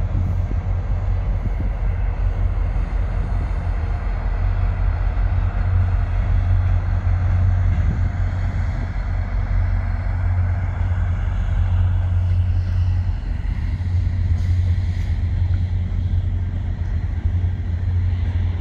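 VIA Rail passenger train passing on a steel bridge: the diesel locomotive's engine and the wheels of the passenger cars make a steady, deep rumble that keeps on as the train goes by.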